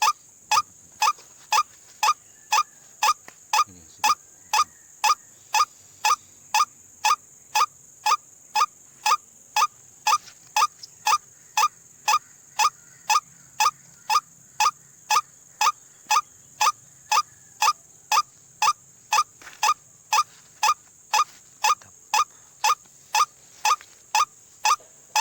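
White-breasted waterhen (ruak-ruak) calls: one short rising note repeated very evenly, about two a second, over a steady high hiss.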